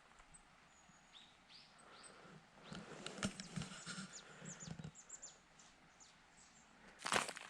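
Small birds chirping outdoors: short, high, falling calls repeated through the first five seconds, with a few soft knocks among them. Footsteps start crunching loudly near the end.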